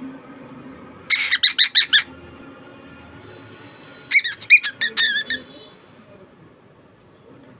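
Pet bird giving two runs of rapid, shrill squawks: about six quick calls a second in, then another run of calls about four seconds in.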